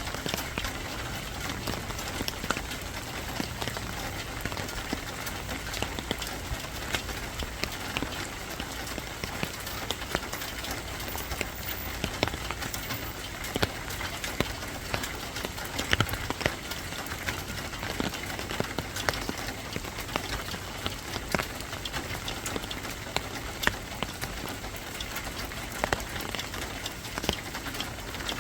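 Steady rain falling on a surface, a continuous hiss dotted with irregular sharp ticks of single drops.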